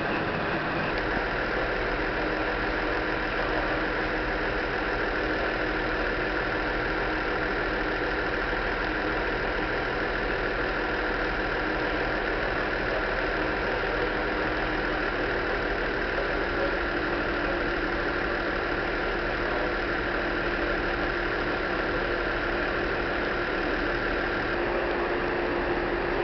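Stationary train standing at the platform, giving off a steady, unchanging mechanical hum with several held tones.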